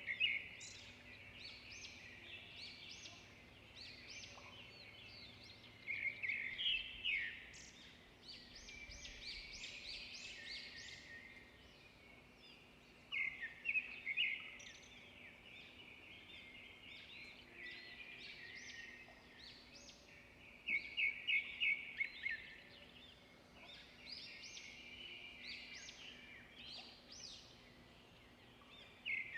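Songbirds singing and chirping. One bird repeats a loud, quick run of high notes about every seven seconds, with softer calls from other birds in between.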